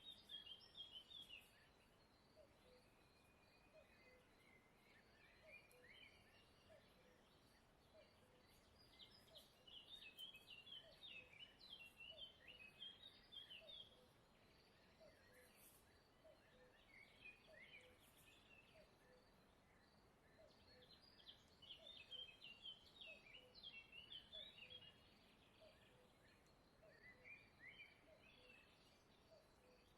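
Faint birdsong: phrases of quick high chirps that come and go every few seconds, over a faint, evenly repeated low pipping.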